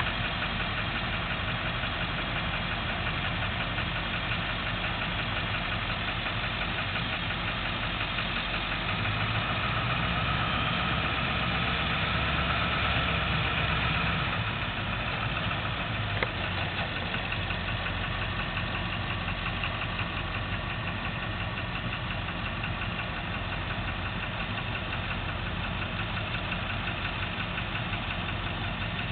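Vehicle engine idling steadily, swelling slightly louder for a few seconds about a third of the way in, with a single sharp click just past the middle.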